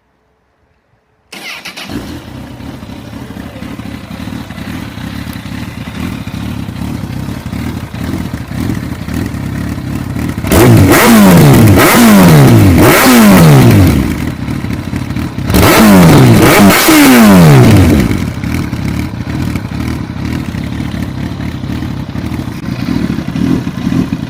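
Honda CB1000 motorcycle engine through a GP Pro aftermarket exhaust with the baffle fitted and the catalytic converter removed. It starts about a second in and idles, then is revved in two sets of sharp throttle blips, three and then two, each falling back before it settles to idle again.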